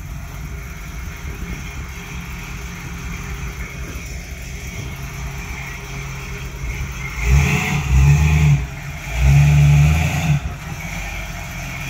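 The one-off 1957 Galileo Special's engine idling as the car is backed slowly, then revved twice past the middle, each blip lasting a little over a second.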